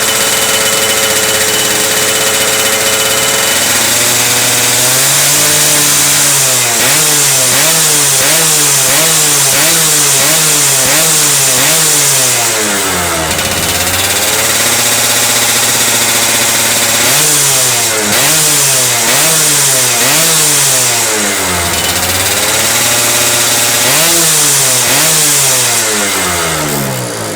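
Yamaha F1ZR's single-cylinder two-stroke engine being blipped through its exhaust: a steady fast idle for a few seconds, then quick rev after rev about once a second, dropping back briefly around the middle before more runs of blips.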